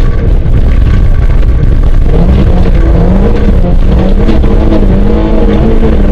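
Renault Clio 1.8 16V's four-cylinder engine, heard from inside the car while it is driven hard on a rally stage. The engine note is weak just after the start, then rises sharply about two seconds in and holds high revs, over heavy road noise.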